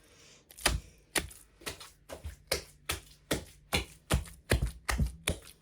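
Ground meat being mixed and kneaded by hand in a bowl: a steady run of wet slaps, about two to three a second.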